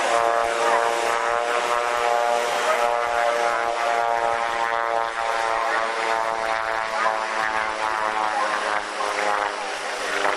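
Engine and propeller of a Loehle P-40 replica ultralight droning steadily in flight.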